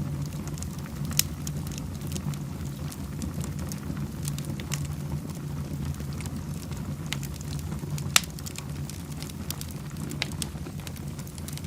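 Wood fire burning in a fireplace: a steady low rumble with scattered crackles and pops, two of them sharper, about a second in and about eight seconds in.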